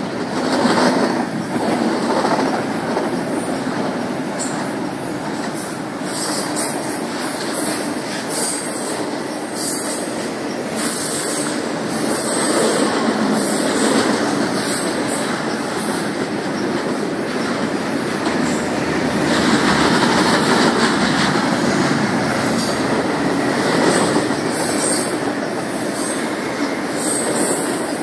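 Train cars rolling steadily past on steel rails, with a continuous rumble and clacking and brief high-pitched wheel squeals now and then.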